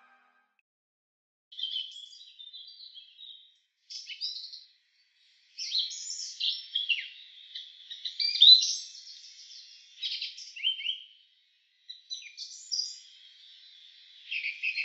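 Bird song: runs of quick high chirps and warbled phrases, starting about a second and a half in and broken by short silent gaps.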